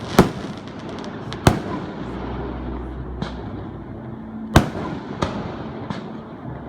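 Fireworks going off: about half a dozen sharp bangs at irregular intervals, the loudest about four and a half seconds in, with a short run of small crackles about half a second in.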